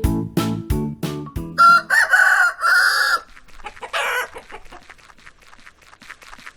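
A short rhythmic music jingle ends about two seconds in. A rooster then crows loudly once, followed by a shorter call and faint, quick clucking.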